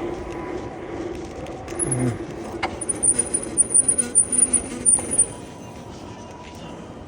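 Steady road and wind noise from riding a bicycle through city streets, broken about three seconds in by a run of loud, very high-pitched squeaks lasting about two seconds.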